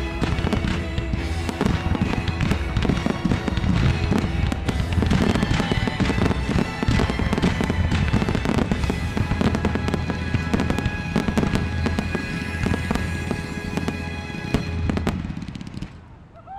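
Aerial fireworks going off in a dense run of bangs and crackles over loud music, the whole barrage dropping away about fifteen seconds in.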